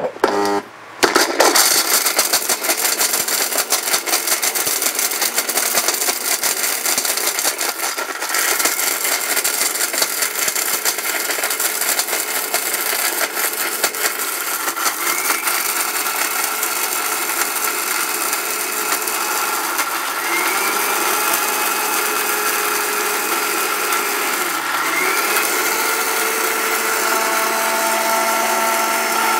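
Commercial electric mixer-grinder running at full speed, grinding broken pieces of dried turmeric into powder. It starts about a second in with the hard pieces clattering in the jug. From about halfway it settles into a steadier whine, with a brief dip in pitch near the end.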